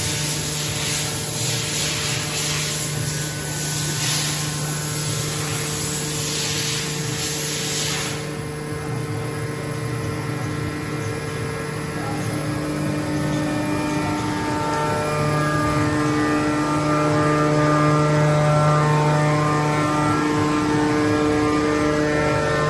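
CNC machine tools running: a steady hum with several whining tones, and a hiss that cuts off suddenly about eight seconds in, after which higher whining tones shift and come and go.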